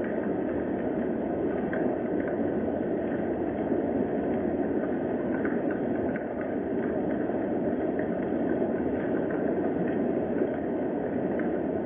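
Steady rain, an even rushing noise with faint scattered taps.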